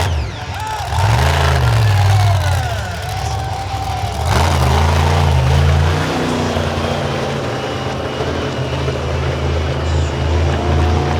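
Monster truck engine revving hard, its pitch rising and falling twice in the first six seconds, then running steadily at high speed. There is a sharp bang about four seconds in.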